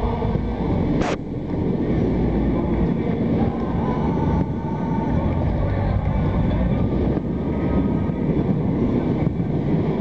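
Dense, steady roar of a large stadium crowd with chanting voices in it, and a single sharp crack, likely a firework, about a second in.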